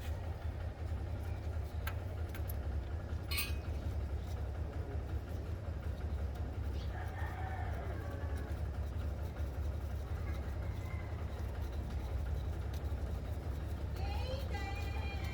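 A rooster crowing, once about halfway through and again near the end, over a steady low rumble, with a few sharp clicks early on.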